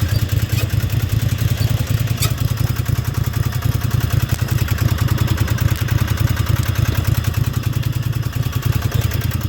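Riding lawnmower's small engine running steadily, with a fast, even beat and a faint click about two seconds in.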